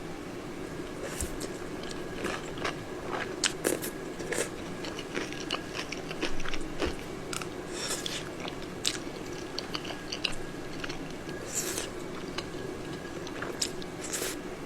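Close-miked chewing and crunching of crispy fried food, with many irregular sharp crackles. A faint steady hum runs underneath.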